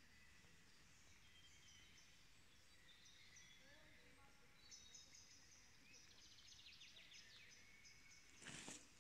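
Faint birdsong: several birds giving short high whistled notes, with a rapid run of repeated high notes around the middle. A brief scuffing noise near the end is the loudest sound.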